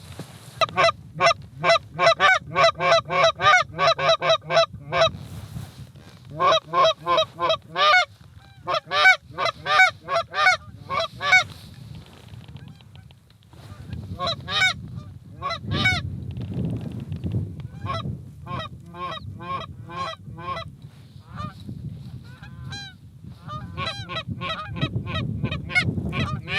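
Goose honking and clucking in quick runs of about four calls a second, loud in the first half and fainter and more scattered after a lull near the middle.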